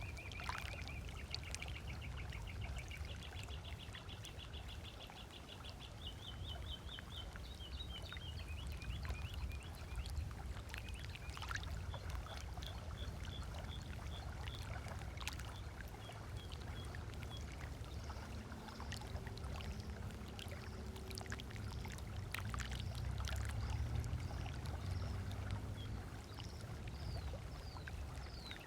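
Small waves lapping on a lakeshore beach, a steady low wash of water, with birds calling: a fast trill of repeated high notes stepping up in pitch over the first several seconds, then scattered short chirps. A faint low hum comes in during the second half.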